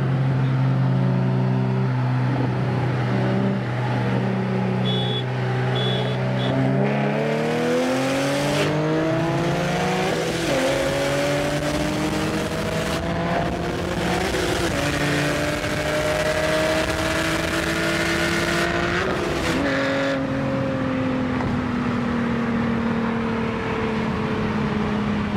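Turbocharged Subaru WRX flat-four engine pulling hard through the gears. The engine note holds steady, then climbs and drops sharply at each of three upshifts, then slowly falls away as the car eases off. A few short high beeps sound about five seconds in.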